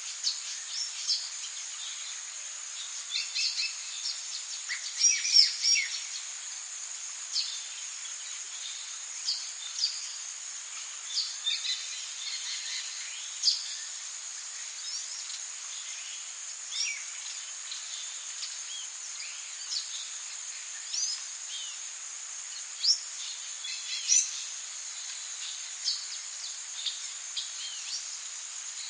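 Tropical rainforest ambience: a steady high-pitched insect drone under many short bird chirps and calls scattered throughout, the busiest and loudest about five seconds in.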